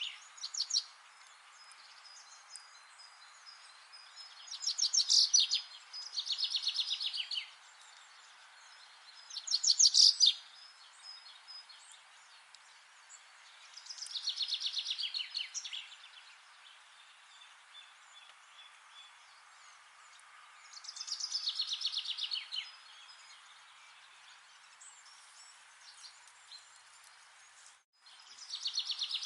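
A songbird singing short, rapid trilled phrases high in pitch, each a second or two long, several seconds apart, over a steady faint hiss.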